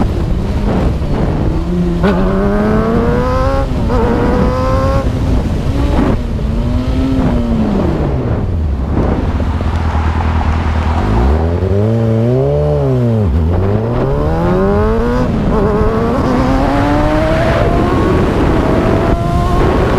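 Motorcycle engine accelerating hard through several quick upshifts, its pitch climbing and dropping back with each gear change, then revving up and down a few times before pulling again. A steady rush of wind and road noise runs underneath.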